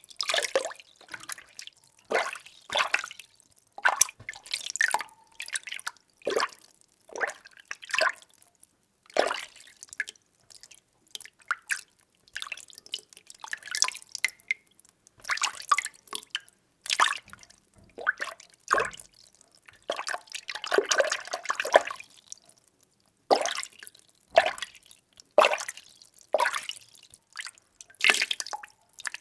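Water being stirred by hand in a small container: a steady run of short sloshes and swirls, about one or two a second, with a longer churning swirl about two-thirds of the way through.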